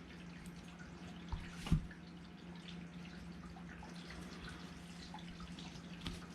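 Faint ticks and taps from the small metal parts of an airsoft rifle bolt being worked on by hand as the grub screw holding the recoil spring is removed, with one louder knock about a second and a half in. A steady low hum runs underneath.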